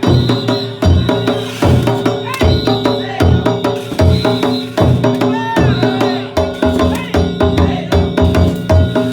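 Danjiri festival music: a big taiko drum beating a fast, driving rhythm while small hand gongs (kane) clang and ring without a break.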